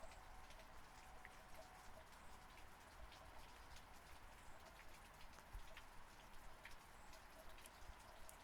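Faint steady rain with many scattered individual raindrops ticking.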